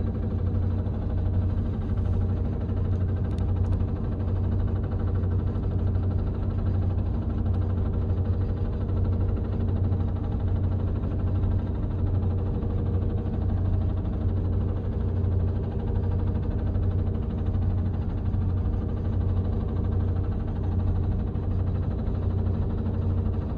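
Heavy machinery engine running steadily, a constant low hum with no change in pitch or level.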